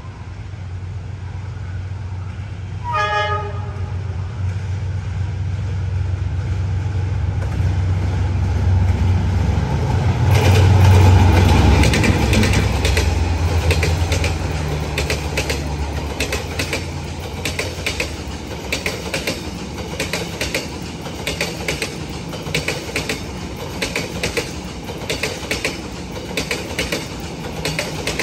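D19E diesel-electric locomotive passing with a train of passenger coaches. A short horn blast sounds about three seconds in, and the engine's low drone builds to its loudest as the locomotive goes by around the middle. Then the coaches' wheels click steadily over the rail joints.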